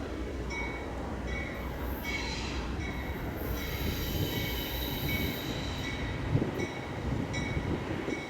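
Norfolk Southern freight train rolling past, its wheels squealing in high, on-and-off tones over a steady low rumble.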